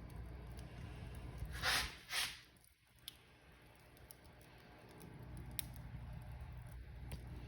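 Wood fire in a fireplace crackling, with scattered sharp pops over a low steady rumble. Two louder hissing surges come close together near two seconds in; the fire sound then drops away briefly and builds back up.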